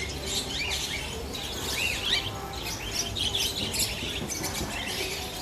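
Many small caged pet birds chirping and twittering at once, a dense overlapping chatter of short, quick calls.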